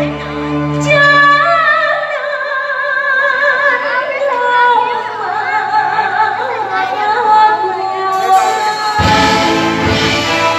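Vietnamese cải lương opera music: a long melismatic sung line with heavy vibrato over sparse accompaniment. A low sustained chord drops out about a second and a half in, and about nine seconds in the full band enters loudly.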